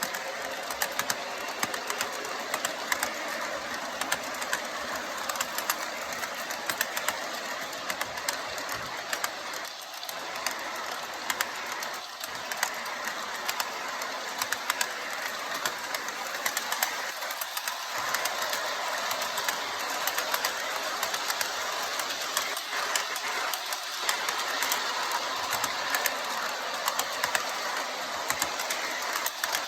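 MTH propane turbine model locomotive, with its four motors running, pulling a train around its track. There is a steady running hum and hiss and rapid clicking of the wheels over the track.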